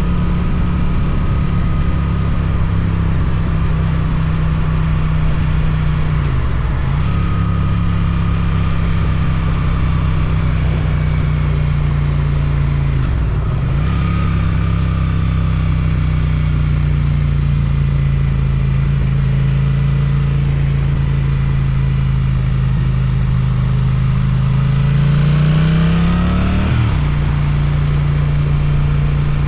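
Suzuki twin-cylinder motorcycle with an Akrapovic exhaust, heard on board while riding. Its engine runs steadily, with two quick drops and recoveries in revs about 7 and 13 seconds in, like gear changes. The revs then sag slowly before climbing near the end and cutting back sharply. Wind rush sits under the engine note throughout.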